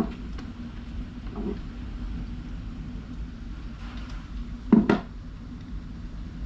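Two sharp knocks in quick succession about five seconds in, with a few fainter clicks before them, over a steady low hum.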